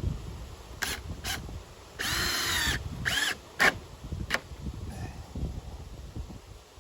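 Power drill driving screws into wood: one run of about two-thirds of a second with the motor whine rising and falling, then a shorter run, with a few sharp knocks of handling around them.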